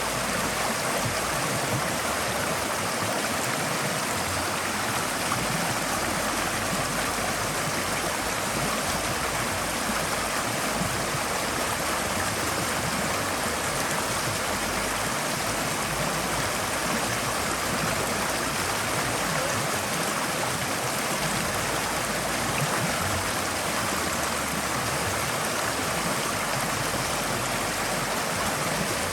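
Forest stream flowing over rocks: a steady, even rush of water with light gurgling.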